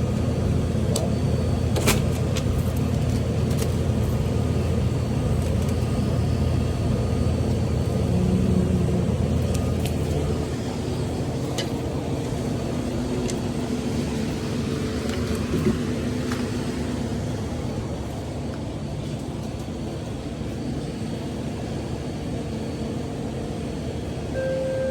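A car on the road: a steady low rumble of engine and road noise that eases off about ten seconds in. There are a few light clicks, and a short beep near the end.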